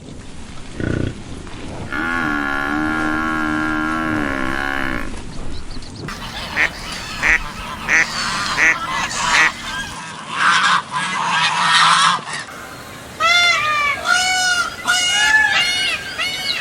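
Farmyard waterfowl calling in a run of short clips: a long held call, then separate short calls, then geese honking in quick repeated rising-and-falling calls near the end.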